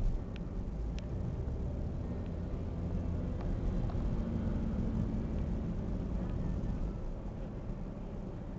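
An engine running steadily, its note stronger from about three to six seconds in, with a few faint clicks.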